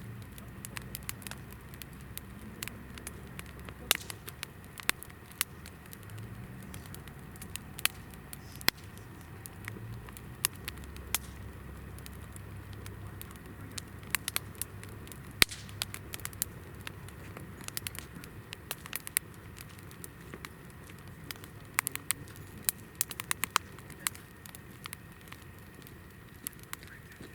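Hinoki (Japanese cypress) firewood burning in a campfire, crackling with frequent sharp pops and snaps over a low rumble.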